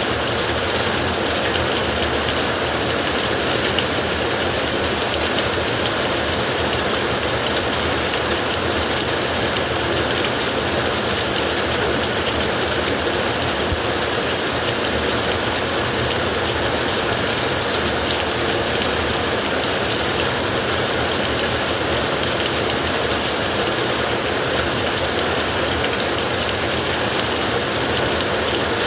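Heavy rain drumming steadily on a tin roof, a dense even patter with no letup.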